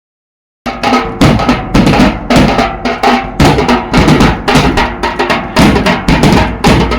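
Loud drum-heavy music with a fast, heavy beat, cutting in abruptly after a moment of silence.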